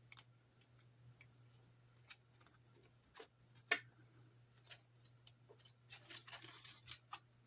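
Faint small clicks, taps and rustling of plastic model parts and tape being handled and pressed into place, with a sharper click just before four seconds in and a stretch of rustling near the end. A low steady hum runs underneath.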